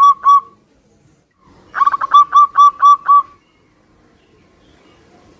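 Zebra dove (perkutut) singing: the last coos of one phrase at the very start, then about a second and a half in a full phrase of quick staccato notes that slow into a run of evenly spaced cooing notes, ending about three seconds in.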